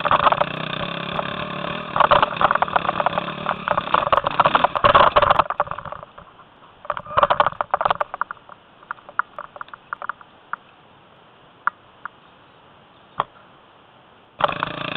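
Enduro motorcycle engine running loud close to the microphone, with rattling clicks over it. About five seconds in it cuts off suddenly, leaving a low background with scattered knocks and clicks. The engine sound comes back abruptly near the end.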